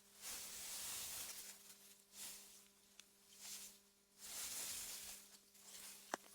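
Wind gusting through meadow grass, a soft rushing that swells and fades several times, over a faint steady hum. Two clicks: a small one about halfway through and a sharper, louder one near the end.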